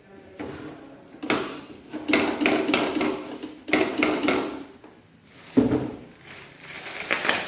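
Irregular knocks, scrapes and rattling of hard parts and tools being handled while fitting a toilet cistern tank, with several sharp knocks and short bouts of scraping and quieter gaps between them.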